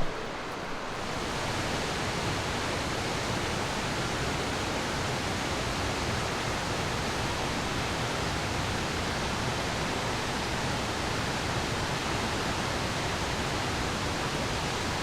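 Steady rushing of water from a mountain river or waterfall, an even rush of noise that swells to full about a second in and then holds level.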